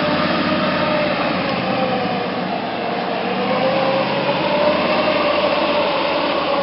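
1988 Ford F-150's 302 V8 engine running under light throttle while the truck manoeuvres, with a whine over it. The revs dip about two seconds in and rise again.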